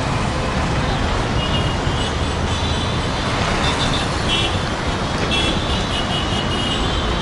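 Steady city road traffic noise, with a few brief high tones now and then.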